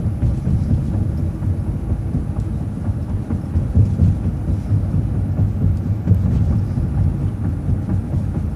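Transit bus running, heard from inside: a steady low rumble of engine and road noise.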